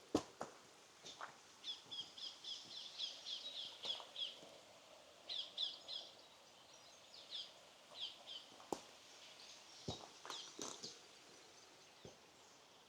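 Small birds chirping in quick runs of short high notes, several notes a second, fading out near the end, with footsteps crunching now and then.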